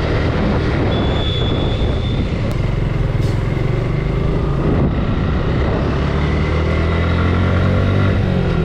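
Suzuki Gixxer 155's single-cylinder engine running steadily while riding at speed, with road and wind noise; the engine note rises slightly near the end.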